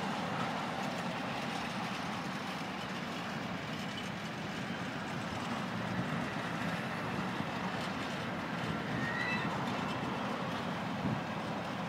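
Train running along the track: a steady rumbling rail and running noise, with a short faint high squeal about nine seconds in.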